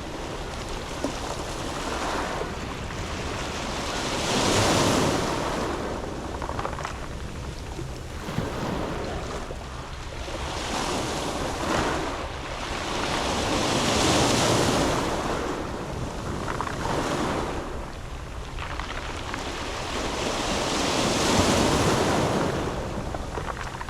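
Sea waves breaking and washing over a beach of round pebbles. The rushing swells and ebbs in about four surges several seconds apart.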